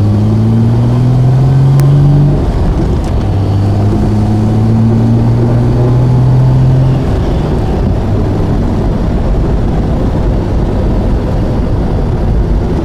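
A 1972 Triumph TR6's straight-six engine with a stock exhaust, heard from the open cockpit while driving. It climbs in pitch under acceleration, drops away at a gear change about two seconds in, and pulls up again. About seven seconds in the throttle comes off and the engine settles back into a steady rumble.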